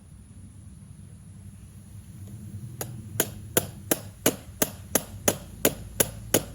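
A hammer strikes about a dozen times, evenly, roughly three blows a second, to force a motorcycle exhaust's tight, out-of-round inlet pipe onto its fitting.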